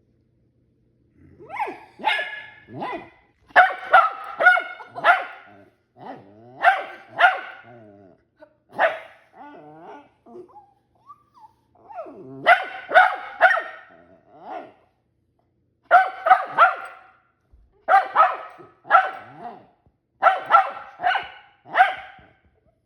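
A dog barking repeatedly in bursts of several barks, with short pauses between the bursts.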